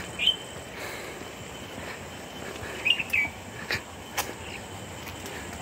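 Small birds giving short, high chirps: one near the start, a quick pair about three seconds in, and another near the end. Under them is a faint steady high tone, and there are a couple of sharp clicks about four seconds in.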